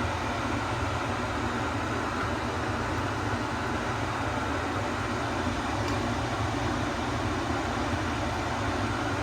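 Steady fan hum in a kitchen, with a couple of faint clicks.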